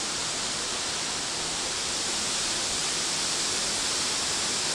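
Steady rush of tropical-storm wind blowing through city buildings, an even noise with no lulls or gusts.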